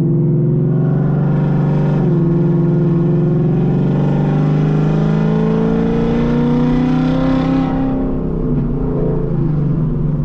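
Supercharged Ford Mustang GT V8 accelerating. The engine pitch dips about two seconds in, climbs steadily for several seconds, then falls away as the driver lifts off near the end.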